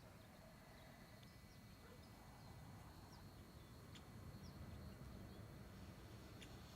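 Near silence: low room tone with a few faint, short high chirps scattered through it.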